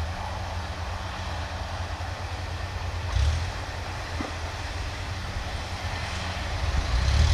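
Kubota DC-105X combine harvester running in the rice field: a steady low engine rumble with mechanical noise from the machine, swelling briefly about three seconds in and getting louder near the end.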